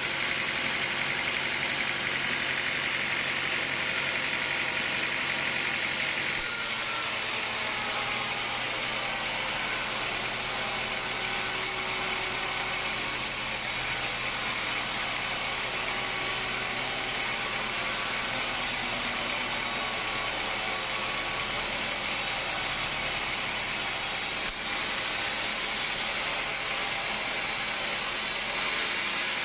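An engine running steadily, with an abrupt change in its sound about six seconds in.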